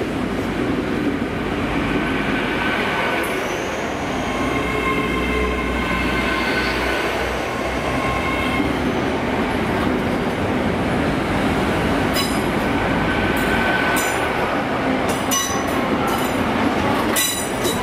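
Great Western Railway Hitachi intercity train (Class 800-series IET) rolling slowly past along the platform, with a steady rumble, high whining tones midway and wheel squeal. A run of sharp clicks follows in the last few seconds.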